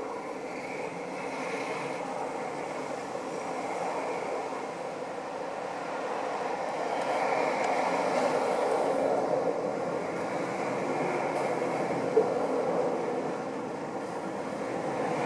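Continuous rumbling background noise that swells for several seconds in the middle and then eases off, with one short sharp click about twelve seconds in.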